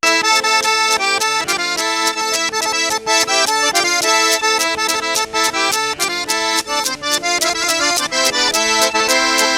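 Accordion playing a lively traditional tune with a quick, even beat, starting abruptly.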